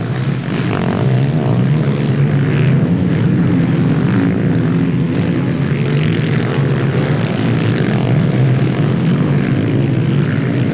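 Motocross motorcycle engines running, a loud steady drone.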